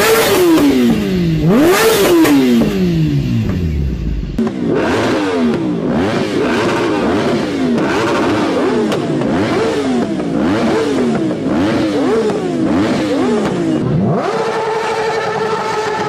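Motorcycle engine revving in repeated throttle blips, each a quick rise in pitch and a slower fall. About three seconds in the revs die away, then the blips pick up again, and near the end the engine is held at a steady high pitch.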